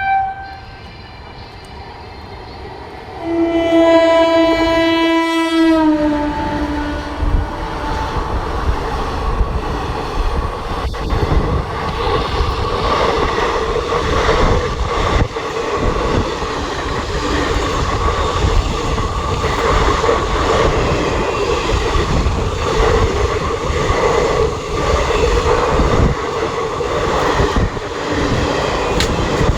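Indian Railways express train passing: its locomotive horn sounds one long blast of about three seconds, its pitch dropping near the end. Then comes the steady rumble of the coaches going by, with the rhythmic clickety-clack of the wheels over the rail joints.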